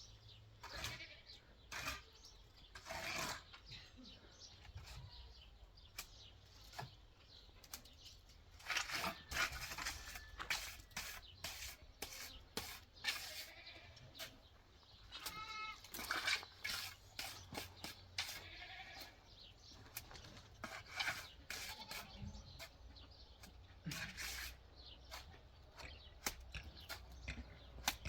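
A goat bleats once, a short wavering call about halfway through, amid scattered knocks and scrapes.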